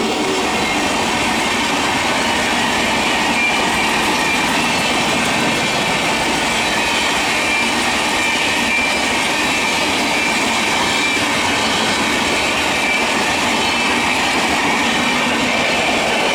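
Electric multiple unit (EMU) local train running along the track: a steady, loud rush of wheels on rails, with a thin high-pitched tone running through it.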